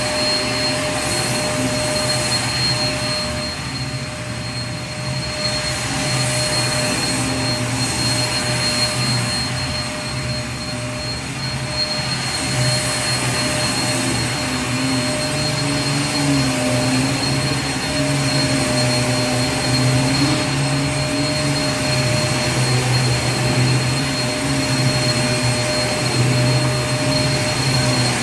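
Vacuum cleaner running continuously: a steady rushing noise with a constant high-pitched motor whine and a low hum that wavers slightly in pitch.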